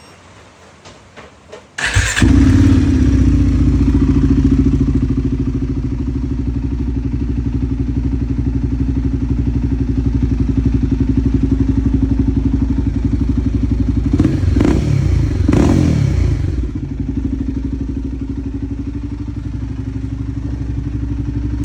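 Royal Enfield Guerrilla 450's 452 cc single-cylinder engine starting up about two seconds in and idling steadily through its exhaust muffler, with two quick blips of the throttle around two-thirds of the way through.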